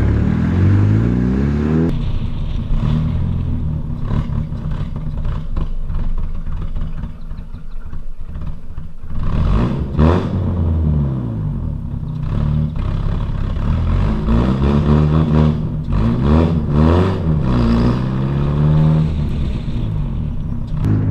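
Honda Prelude engine revving up and down several times, sputtering a little: the owner thinks it is still running too rich.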